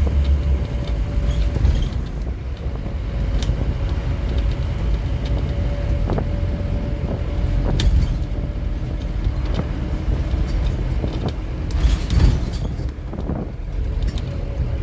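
Scania N230UD OmniCity double-decker bus running along, a steady low engine and road rumble. A whine holds one pitch, then carries on lower from about eight seconds in, while short rattles and knocks come and go, the loudest about twelve seconds in.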